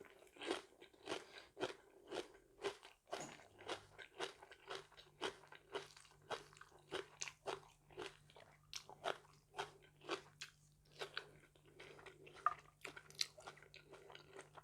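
A person chewing crunchy food close to the microphone, a steady run of crisp crunches about twice a second.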